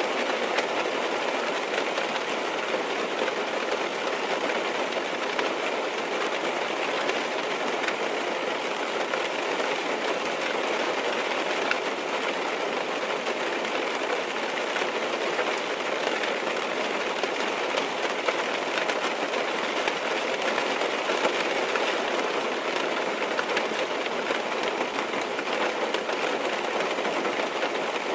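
Rain falling on a car's roof and windows, heard from inside the car: a steady, even patter of many fine drops.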